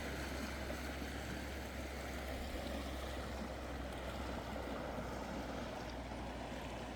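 Klamath River water flowing past, a steady rushing wash with a low rumble underneath.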